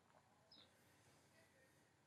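Near silence: room tone, with one faint, brief high chirp about half a second in.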